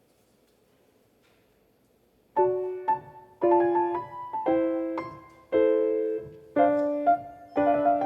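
Near silence, then about two seconds in a piano begins playing, with chords struck roughly once a second, each ringing and fading before the next.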